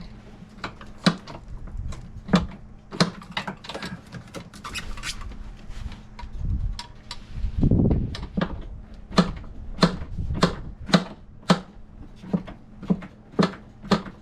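A series of sharp knocks from hand-tool work, irregular at first and then steady at about two a second, with one heavier low thump about eight seconds in.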